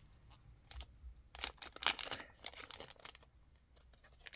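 Plastic bead packaging crinkling and rustling as it is handled, with scattered small ticks and a denser run of crinkling in the middle.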